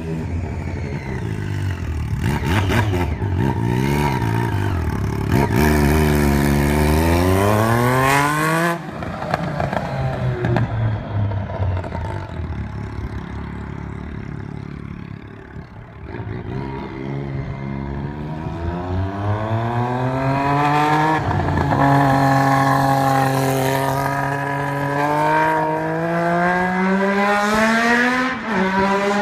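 Triumph Street Triple inline three-cylinder engine revved with the muffler removed, open exhaust loud and raspy. It is blipped a few times, pulled up in a long climbing rev that drops off sharply, settles toward idle, then is revved up again in rising pulls toward the end.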